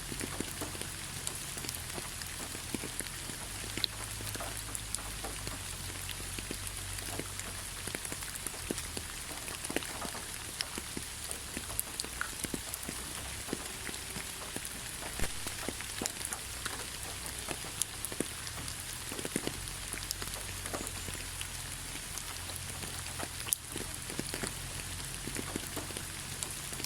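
Steady rain falling in a forest, an even hiss with many separate drops tapping close by.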